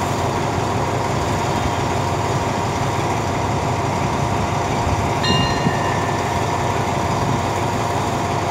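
A diesel-hauled passenger train standing at a station platform, its engine idling with a steady rumble and a steady whine. About five seconds in, a brief high tone sounds for about a second.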